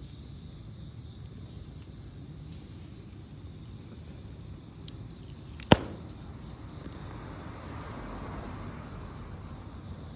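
A wood campfire burning with pine needles in it: a low steady rumble and a few faint crackles, then one loud, sharp pop a little past halfway. Over the last few seconds a soft rushing hiss of flame swells up.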